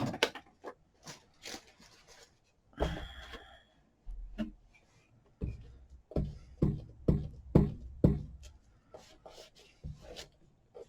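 Hands working paper on a tabletop while gluing paper squares down: light rustles and a string of soft taps and knocks, closer together from about the middle on.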